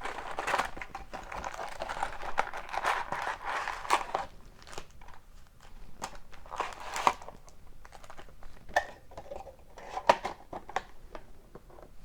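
Plastic wrap being torn and crumpled off a hobby box of hockey cards: a dense crinkling for about the first four seconds, then scattered crackles and taps as the box is handled and opened.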